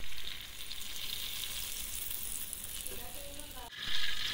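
Hot fat frying in a steel pot with a steady sizzle, which swells louder near the end as food is dropped in.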